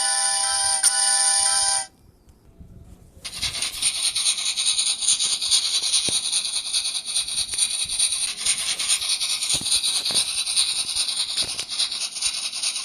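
A toy train's electronic chime tune plays and stops. After about a second of near quiet, a steady rattling hiss starts and keeps going as the train rides.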